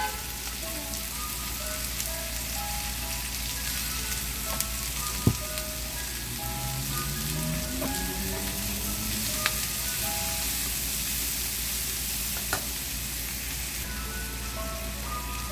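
Food sizzling steadily as it fries in a pan on the stove, with a few sharp clicks from utensils, the loudest about five seconds in. A tune is playing in the background.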